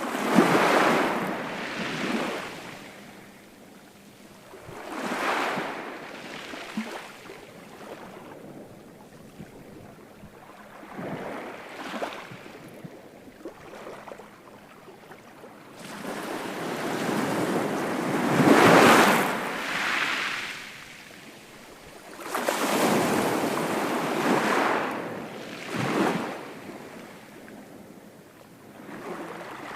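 Ocean waves breaking on a shore, each surge of surf swelling and washing back every few seconds, with quieter hiss between breakers; the biggest breaks come near the start and about two-thirds of the way through.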